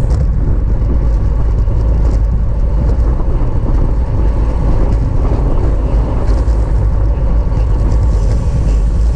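Loud, steady wind rumble over the microphone of a camera travelling on a bicycle at racing speed.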